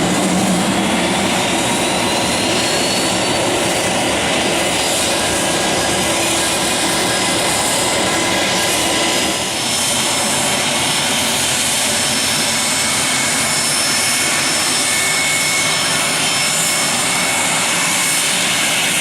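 Business jet's turbofan engines running with a steady rushing roar and a high whine, which rises in pitch over the first few seconds.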